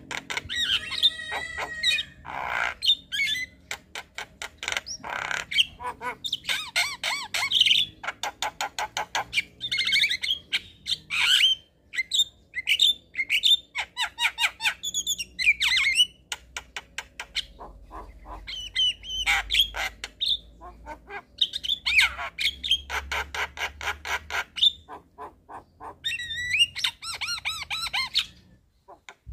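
Javan myna (jalak kebo) singing a long, varied song: rapid trains of clicks and rattles mixed with harsh squawks and short whistled notes.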